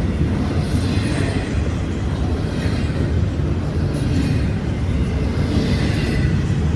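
Double-stack freight train rolling past, a steady low rumble of the cars on the rails.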